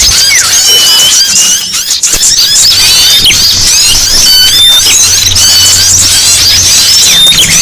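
Loud, dense chorus of many small songbirds chirping and twittering over one another, a bird-lure call recording. A low hum sits underneath for a few seconds in the middle.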